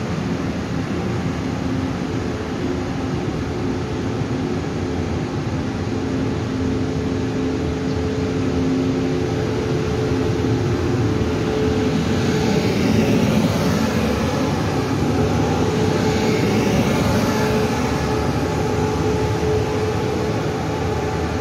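Taiwan Railway E1000-series push-pull express train pulling out of the platform, its coaches rolling past with a steady hum and wheel-on-rail noise, ending with the rear power car going by. Faint whines glide up and down through the middle stretch as it gathers speed.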